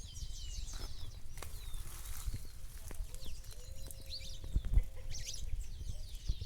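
Birds chirping repeatedly in short, high notes that slide downward, over a low rumble.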